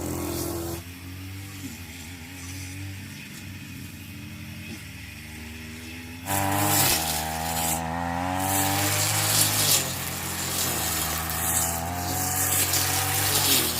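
A motor running steadily, with a pitch that wavers. About six seconds in it revs up and gets much louder, with a rushing noise added, as if coming under load.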